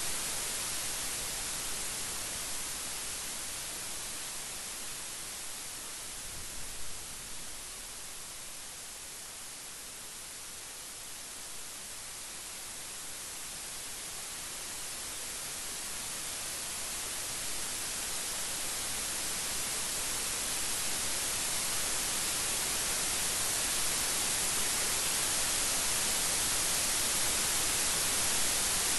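Steady rain making a dense, even hiss that eases a little partway through and then swells again toward the end.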